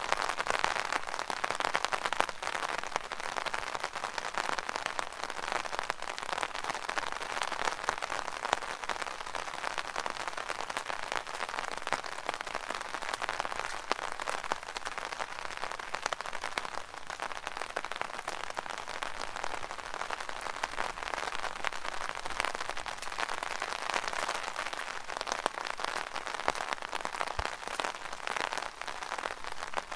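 Steady rain pattering on an umbrella canopy overhead: a dense, even patter of countless small drops hitting the taut fabric.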